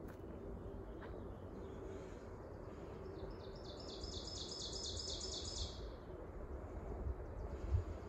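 A small songbird sings one rapid trill of high repeated notes lasting about two and a half seconds, starting about three seconds in. Under it runs a low rumble on the microphone, with a thump near the end.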